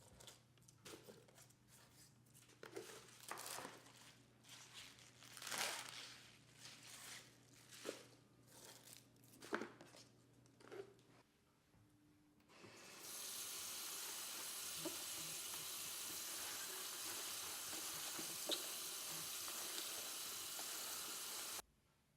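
Kitchen handling sounds: light rustling, crinkling and tapping over a faint low hum. About halfway through, a loud steady hiss of sizzling or running water starts and cuts off suddenly near the end.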